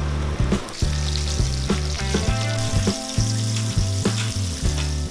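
Flour-coated chicken skin deep-frying in hot oil in a pan: a steady sizzling hiss that grows stronger about a second in. Background music with a bass line and a regular beat plays over it.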